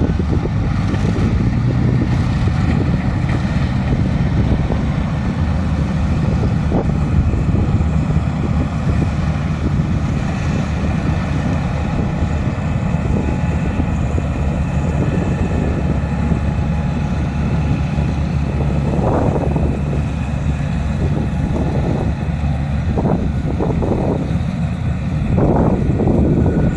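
A diesel engine running steadily under load, with wind buffeting the microphone.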